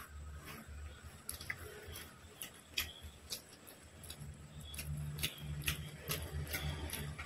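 Close-miked eating of chicken fried rice by hand: wet chewing and mouth clicks, with fingers squishing the rice. Irregular sharp clicks come one or two a second.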